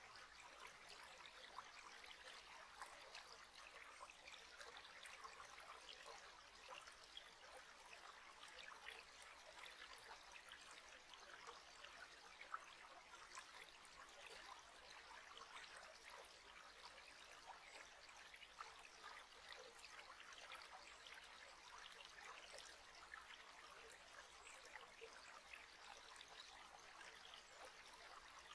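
Faint, steady trickling of a small stream, water babbling continuously with many tiny splashes.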